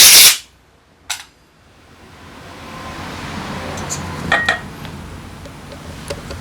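Loud hiss of a pressurized spray, carburetor cleaner or compressed air blown through the carburetor, cutting off sharply just after the start. Then a single click about a second in, and a few small clicks and light clinks of parts being handled a little past halfway.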